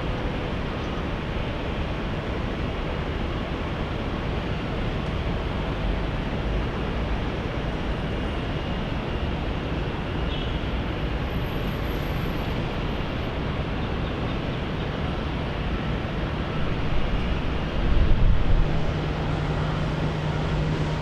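Steady roar of jet airliner engines, with a low rumbling swell near the end and a low hum setting in after it.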